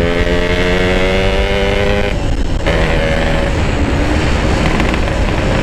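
Yamaha RX-King 135 cc two-stroke single-cylinder engine running under way, its note climbing slowly for about two seconds, breaking off briefly, then pulling on at a lower pitch. Heavy wind rumble on the microphone lies under it.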